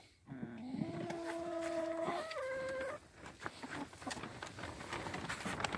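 A chicken hen gives one long, drawn-out call lasting nearly three seconds, its pitch stepping up about two seconds in. It is followed by scattered rustling and clicks.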